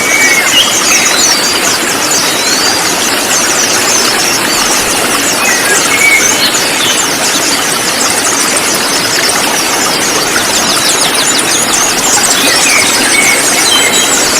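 A flock of konin birds chirping together in a dense, rapid chatter over a steady hiss, with scattered short whistled notes. This is a lure recording meant to set caged birds singing.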